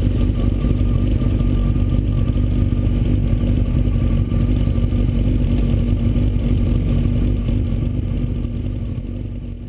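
Motorcycle engine running at a steady, unchanging speed, fading out near the end.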